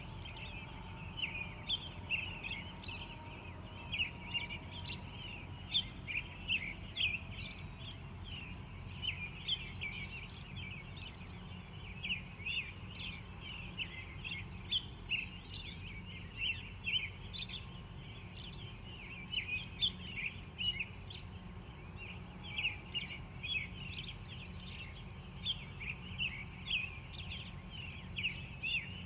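Wild birds chirping in a dawn chorus, many short chirps one after another throughout, over a steady high-pitched insect trill and a low background rumble.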